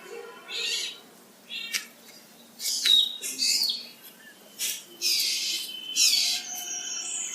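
A small songbird giving a series of short, high-pitched calls, roughly one a second, some sweeping downward in pitch.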